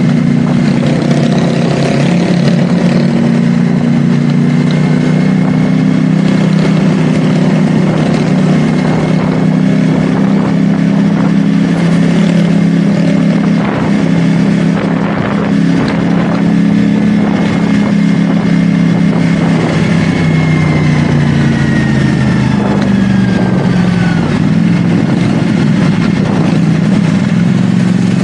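CFMoto 450SR S's parallel-twin engine running at a steady cruise under wind rush, easing off about 20 seconds in with the engine pitch falling, then holding steady again.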